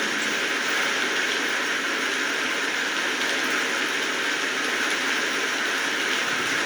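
Steady rainfall: an even hiss that holds at one level throughout.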